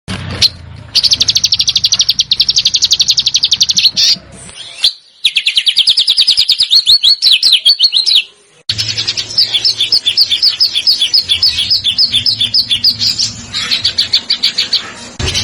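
Small songbird's rapid 'besetan' trill: fast runs of high, evenly repeated chirps. They come in spliced segments that cut off abruptly about four and a half and eight seconds in, with a faint low hum beneath.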